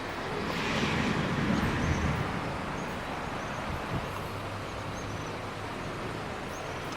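Steady rain noise during a thunderstorm. A low rumble of thunder swells and fades within the first couple of seconds.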